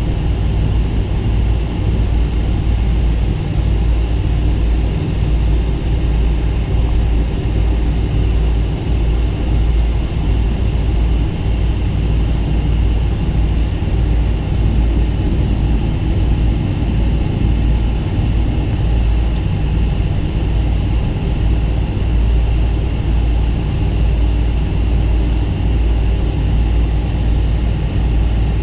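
Steady, loud low rumble of a Boeing 777-200's engines and airflow heard inside the passenger cabin, unchanging throughout.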